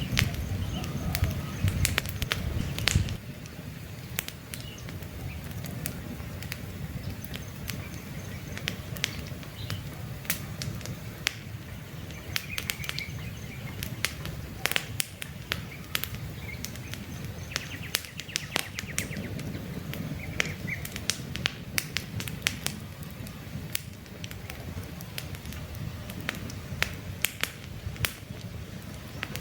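Campfire burning: irregular sharp pops and snaps of wood over a steady low rush of flames, which eases slightly about three seconds in. Faint bird chirps come now and then.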